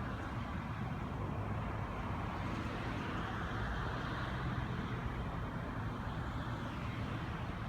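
Steady rumble of road traffic, swelling as a vehicle goes by about four seconds in.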